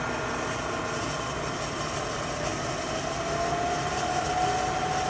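Trak DPM bed mill spindle running in high gear while its speed is being brought down from 4200 RPM toward 2800 RPM: a steady machine hum with a faint whine whose pitch shifts and then holds steady about three seconds in.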